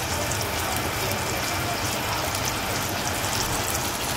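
Seasoned raw pork chops sizzling steadily in hot oil in a nonstick frying pan, a dense, even crackle.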